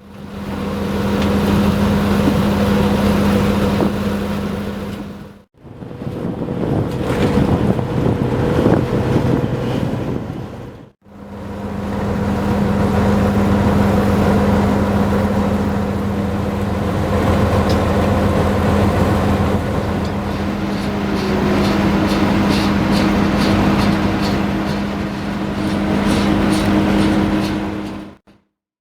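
A large engine running steadily with a constant low hum, heard in three stretches cut apart by brief silences. Near the end there are faint, evenly repeating clicks.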